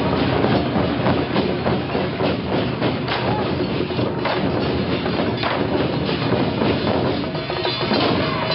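Traditional temple-procession percussion playing loudly: a dense run of rapid drum and cymbal-like strikes, with some ringing tones coming in near the end.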